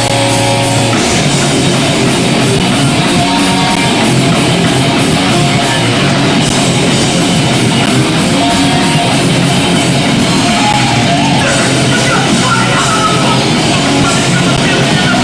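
Hardcore punk band playing live at full volume: distorted guitars, bass and drums. A held guitar chord rings for about a second before the whole band comes in hard, and shouted vocals join about two thirds of the way through.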